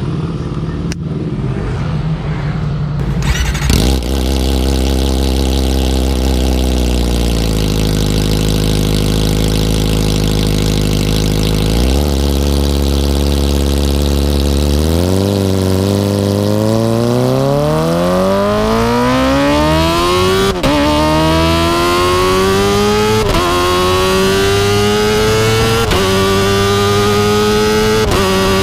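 Kawasaki ZX-25R inline-four engine running through an Akrapovic exhaust under way. It gets loud a few seconds in and holds a steady pitch. From about halfway it accelerates, the pitch climbing steadily with a brief dip at each of three upshifts.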